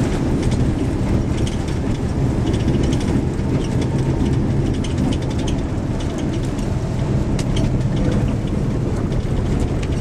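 A moving road vehicle heard from inside: steady engine and road rumble with small rattles and clicks throughout.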